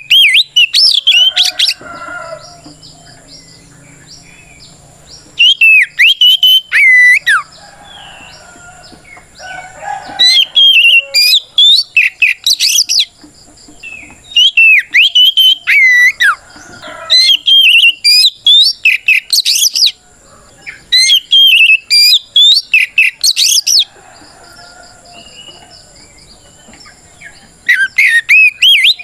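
Oriental magpie-robin (kacer) singing its loud, full challenge song aimed at a rival: about seven bursts of fast, sweeping whistled phrases, each two to three seconds long, with short pauses between them.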